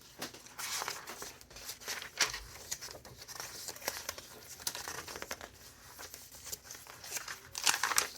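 Pages of a thick handmade junk journal being turned and handled, with irregular crinkling rustles and quick flicks of paper.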